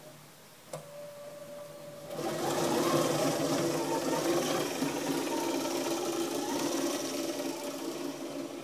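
A small motor on a homemade garden truck, with a click about a second in. A steady mechanical whir with a hum starts about two seconds in and runs evenly on.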